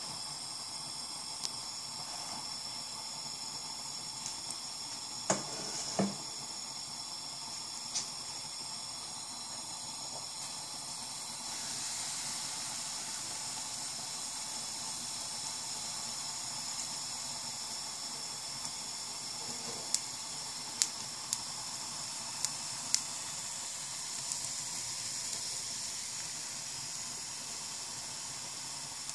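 Oil sizzling in a hot flat pan, then, about twelve seconds in, louder sizzling as pancake batter is poured onto the hot oil and starts to cook. A few short sharp clicks stand out along the way.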